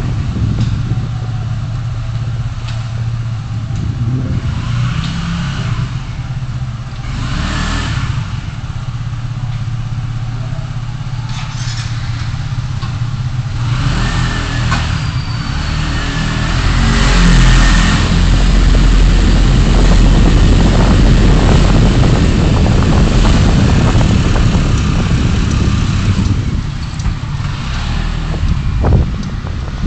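Car driving, recorded by a dashcam: steady engine hum and road noise, growing louder and rougher with a heavy low rumble about halfway through, then easing off near the end.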